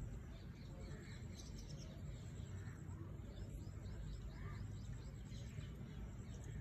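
Birds chirping faintly, scattered short calls over a low steady rumble.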